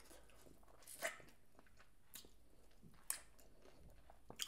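Faint close-up chewing of fried chicken, with four brief crisp crunches spaced about a second apart.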